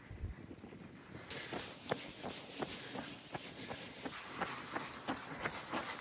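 Running footsteps on a hill path, about three strides a second, starting a little over a second in, over a steady rubbing hiss.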